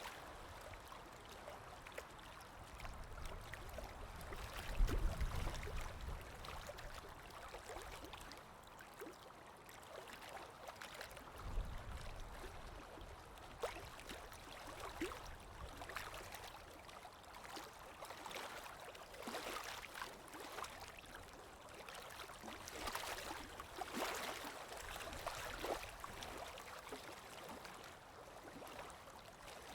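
Water lapping and splashing gently with a constant wash, under wind that swells in low gusts about five seconds in and again near twelve seconds.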